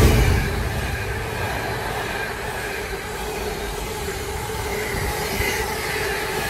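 Class 66 diesel locomotive passing at speed, loudest at the very start as it goes by and falling off within a second. It is followed by the steady rumble and rattle of container wagons rolling past on the rails, with a steady tone running through it.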